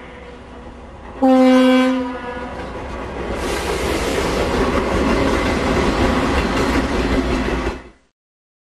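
A diesel locomotive's air horn sounds one short blast about a second in as a Norfolk Southern snow plow train approaches. The plow and its locomotives then pass close by with a loud, steady rushing noise of machinery, wheels and thrown snow, which cuts off abruptly near the end.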